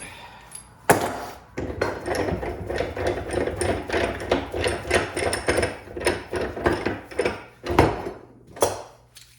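Metal knocking and tapping while universal-joint bearing caps are worked out of a double cardan driveshaft joint: one sharp strike, then a quick run of knocks, then two more single strikes near the end.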